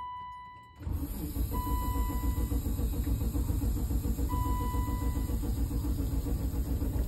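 BMW M30 3.5-litre straight-six being cranked by its starter after about five years unstarted, not yet firing, on fuel from a makeshift external pump. The cranking comes in about a second in as a fast, even pulsing, with three steady high beeps over it.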